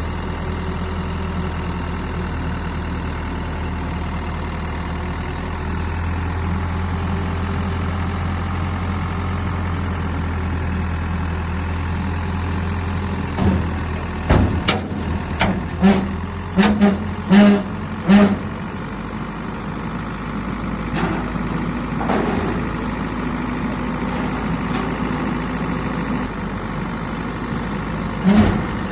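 Skip-bin truck's diesel engine running steadily with the drone of its hydraulic lift as a skip bin is hoisted aboard. About halfway through, the drone drops and a quick series of knocks and clanks follows, with two more knocks near the end.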